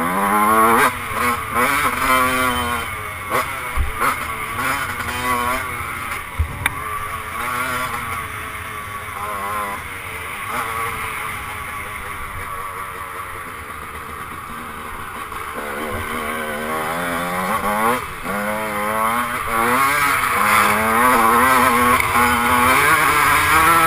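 1996 Honda CR125's 125cc two-stroke single-cylinder engine being ridden hard, its pitch repeatedly climbing as it revs out and dropping at each shift or throttle-off, easing to lower revs midway. A few sharp knocks sound around four and seven seconds in.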